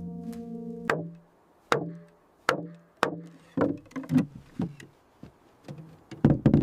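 A series of about a dozen irregular wooden knocks, each with a short low ring, as timber is tapped into place.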